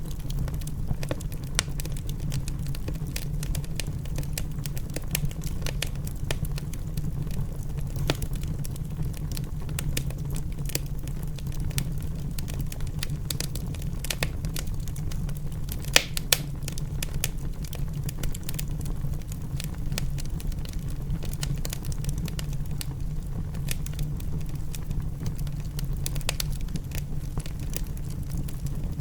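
Wood fire crackling in a fireplace, with frequent irregular sharp pops over a steady low rumble; the loudest pops come about halfway through.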